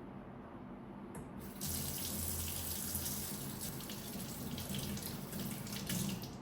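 Kitchen tap running into a sink, turned on about a second and a half in and running steadily until it is shut off at the end.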